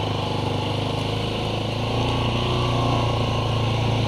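ATV engine running steadily at idle.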